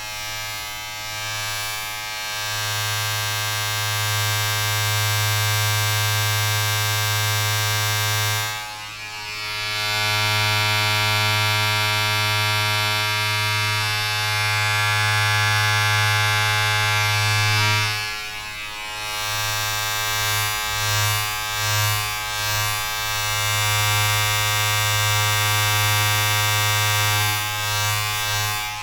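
Steady electric buzz over a strong low hum, like a small mains-powered appliance running. It drops away briefly about nine seconds in and again about eighteen seconds in, and wavers for a few seconds after the second drop.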